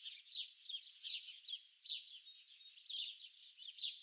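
Several small birds chirping in a dense, overlapping chorus of short, high-pitched notes, each sweeping quickly downward, several a second.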